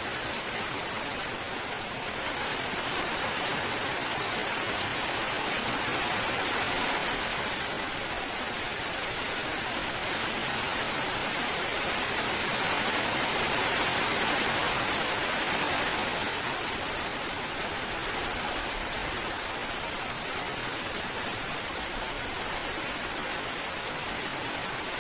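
Steady heavy rainfall, a continuous even hiss that swells slightly in the middle and eases again.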